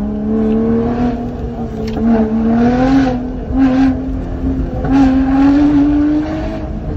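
Supercharged 3.5-litre V6 of a Lotus Exige 410, heard from inside the cabin, pulling hard at speed. Its pitch rises gradually and falls back near the end as the driver lifts off.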